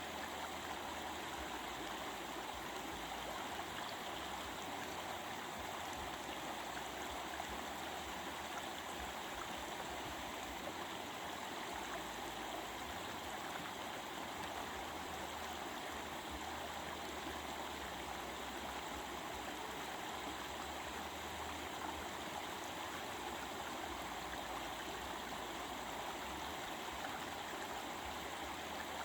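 Stream water flowing steadily, a continuous even babble with no breaks or changes.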